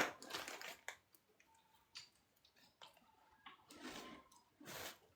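Small handling noises: a sharp click at the start, scattered light ticks, then two short rustles near the end.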